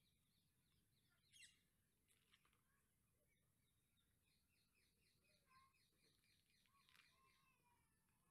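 Near silence with faint birdsong: scattered chirps and a run of quick repeated notes, with louder calls about one and a half seconds in and again about seven seconds in.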